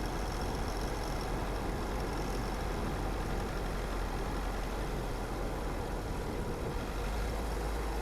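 Car engine running steadily, with a low rumble under an even hiss.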